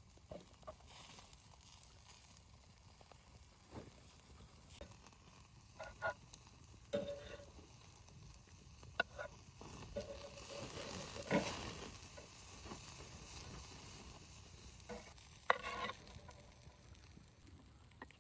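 A soft steady hiss with scattered clinks, knocks and brief scrapes of cookware being handled, the hiss swelling for a few seconds past the middle.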